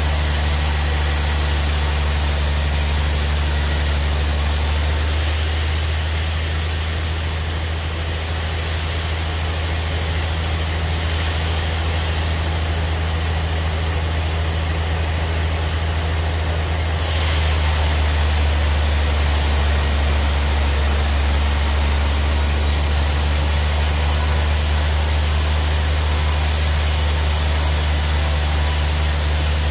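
Sawmill log bandsaw machinery running with a steady low hum that grows slightly louder about 17 seconds in.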